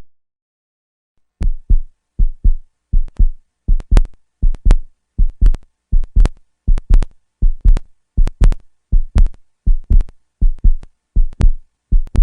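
Heartbeat sound effect: paired low thumps, lub-dub, about one beat every three-quarters of a second, starting about a second and a half in and keeping an even pace.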